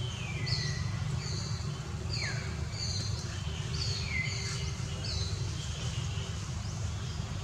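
Birds chirping: a run of short, high notes, several sliding downward, over a steady low rumble.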